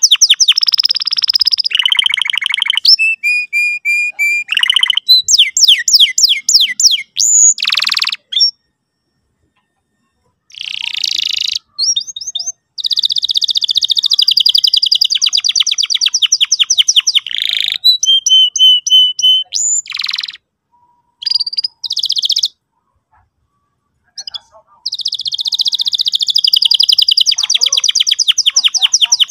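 Domestic canary singing a fast, high-pitched song of rapid trills and rolls, some held at one pitch and some sweeping. The song breaks off twice for about two seconds.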